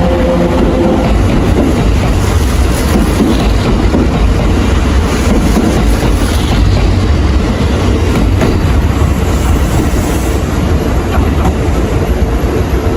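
Kintetsu electric train running, a loud steady rumble of wheels on rail with a hiss of running noise over it.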